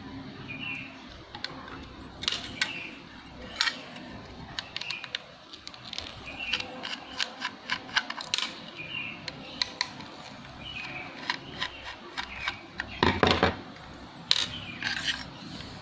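Irregular small clicks and taps of a laptop hard drive and its parts being handled, with a louder clatter about thirteen seconds in.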